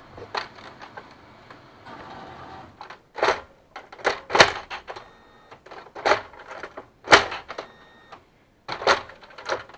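Kyocera M2040dn laser MFP running through its start-up, with its automatic document feeder mechanism making a low mechanical whirr and a series of sharp plastic clicks and clunks. No squeak or whistle is heard: the feeder's squeak is cured now that its eccentric gear, bushing and bolt have been removed.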